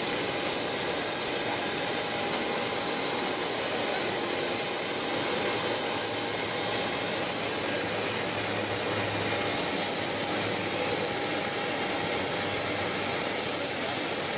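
Jet aircraft turbine running steadily: an even rushing noise with steady high-pitched whine tones.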